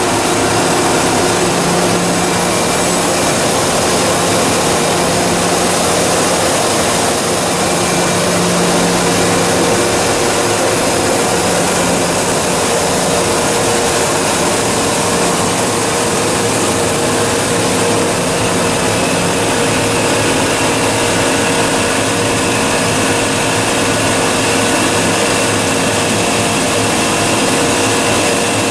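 YDN-100-2V-T two-stage plastic recycling machine running: a loud, steady mechanical noise with several constant hums and whines over it.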